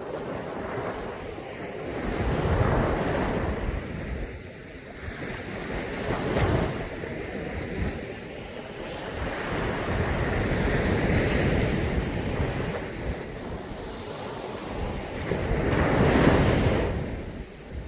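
Caribbean Sea surf breaking and washing up a beach in slow surges, each swelling and ebbing over a few seconds, the loudest near the end. Wind rumbles on the microphone throughout.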